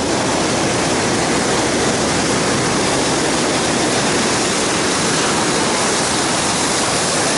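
Rushing whitewater of a Colorado River rapid heard from a raft: a loud, steady roar of water that sets in suddenly right at the start and holds without letting up.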